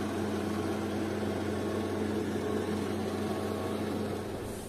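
Steady mechanical hum with a constant low pitch, fading out near the end.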